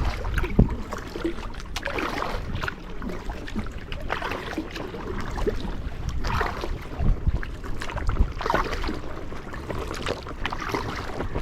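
Kayak paddle strokes swishing and splashing in the water, about one every two seconds, over a low wind rumble on the microphone.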